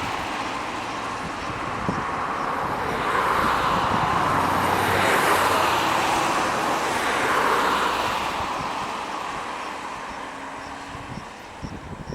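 Airbus A330-200 with General Electric CF6-80E1 turbofan engines passing on its landing approach: a jet rush that swells to its loudest about five to eight seconds in, then fades away.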